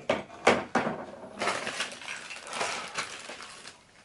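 Small screen-assembly parts being handled: a few sharp clicks and knocks in the first second, then a stretch of rustling that dies away near the end.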